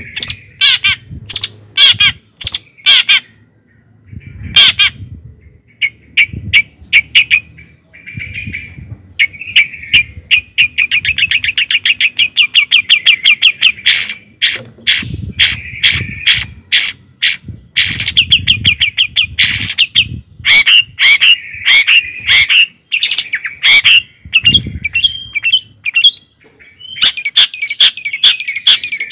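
A bird chirping and trilling loudly at close range: a string of sharp chirps with fast rattling trills in between.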